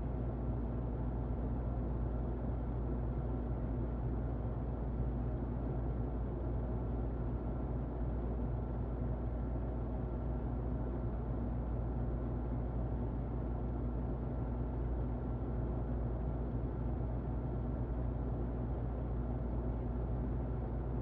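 Muffled electric fan running steadily: an even, low, rumbling whoosh with a faint steady hum and little hiss at the top.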